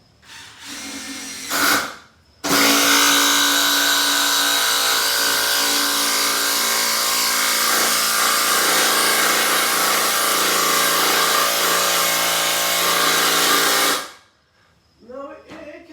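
12-volt cordless impact driver impacting a large fastener into wood. Two short bursts come first, then one long run of about eleven seconds that stops abruptly as the fastener is driven home under heavy load.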